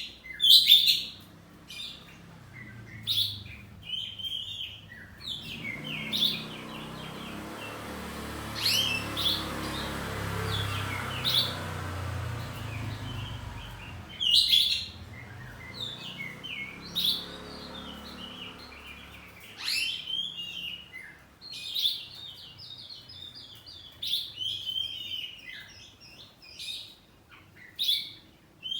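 Caged oriental magpie-robin (kacer) singing: a steady run of short chirps and whistled phrases broken by brief pauses. A low rumble rises and fades in the background between about six and fourteen seconds in.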